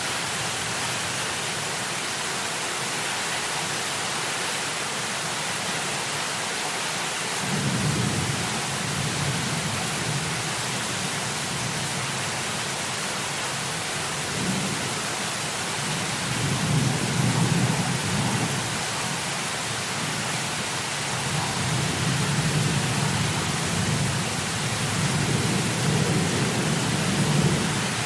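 Steady heavy rain hiss. A little over a quarter of the way in, low rolling thunder rumbles begin, swelling and fading several times through the rest.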